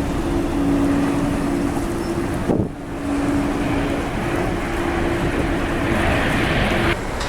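Jet airliner engines running, with strong wind rushing over the microphone and two steady hums under the noise. The sound breaks off abruptly about two and a half seconds in and again near the end.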